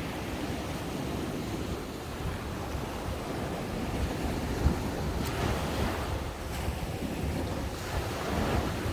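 Ocean surf breaking and washing up the beach, a steady rush with swells building about five seconds in and again near the end. Wind buffets the microphone, with a brief sharp knock about halfway through.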